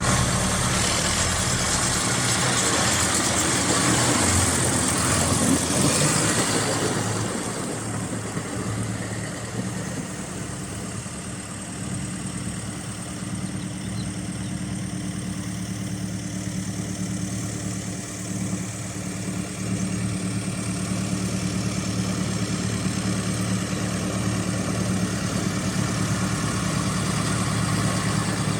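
John Deere 6830 tractor's six-cylinder diesel engine running steadily at idle. It is louder and hissier for the first several seconds, then settles quieter, picking up a little about two-thirds of the way in.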